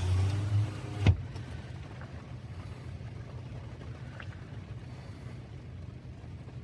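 Car's power window motor running briefly and stopping with a sharp thunk about a second in, then the steady low hum of the idling car.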